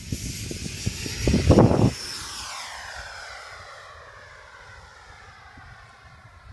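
Electric ducted fan of a Freewing F-86 Sabre 80 mm RC jet whining as it passes, its pitch falling as it fades away after about two seconds. Wind buffets the microphone, loudest around a second and a half in.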